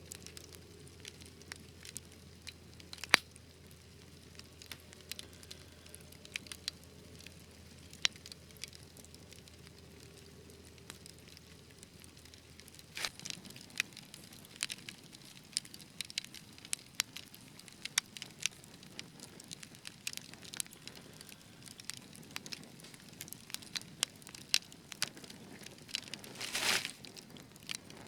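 Wood fire in a fireplace crackling, with irregular sharp pops over a low hiss. One loud pop comes about three seconds in, the pops grow more frequent from about halfway, and a short hissing burst comes near the end.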